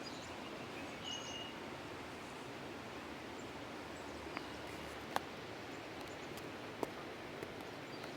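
Steady outdoor background noise by a pond, with one short high bird chirp about a second in. A few sharp clicks come in the second half, the loudest a little after the middle.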